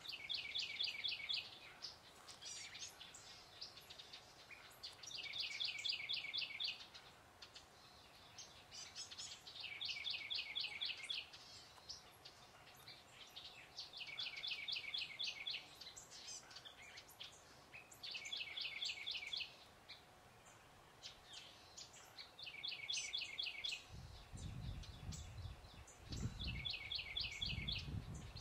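A songbird singing a short, fast trill of repeated notes, over and over about every four seconds. A low rumble comes in near the end.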